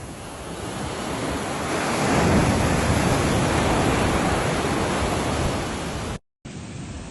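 Sea surf: the noise of a wave swells up, peaks and washes back out. The sound cuts out completely for a moment about six seconds in, then the surf noise resumes.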